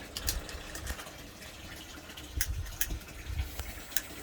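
Dry firewood crackling in an open wood fire: irregular sharp snaps and pops, about six in four seconds, over a low steady rush of the flames.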